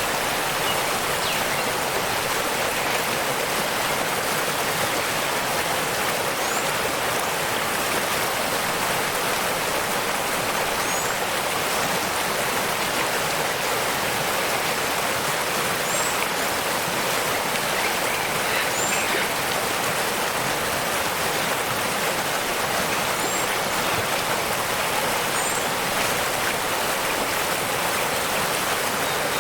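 Waterfall: a steady, even rush of falling and flowing water, with a few faint, brief high bird chirps here and there.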